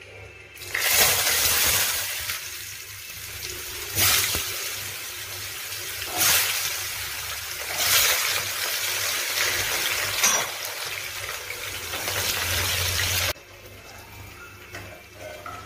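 Cut vegetable pieces frying in hot oil in a nonstick kadai with a loud, steady sizzle that starts suddenly about a second in as they go into the pan. The sizzle swells every couple of seconds as the pieces are stirred with a spatula, then cuts off abruptly near the end.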